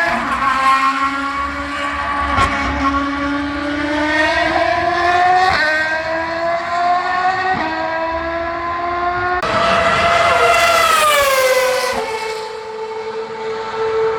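Ferrari Formula 1 car engine accelerating hard through the gears, its high-pitched note climbing and stepping down briefly at each quick upshift. Near the end it gets louder, then the pitch falls and settles on a steadier lower note.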